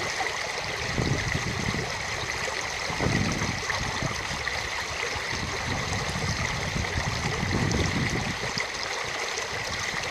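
Steady rush of running water from a stream, with irregular low rumbles underneath.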